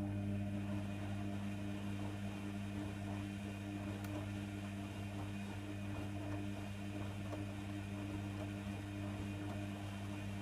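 Hoover Nextra HNWL7146 washer dryer running mid-cycle: a steady hum with some water-like noise above it, which stops near the end.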